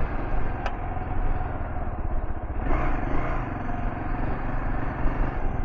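Kawasaki KLR650's single-cylinder engine running as the motorcycle is ridden off road, with a short clatter about three seconds in.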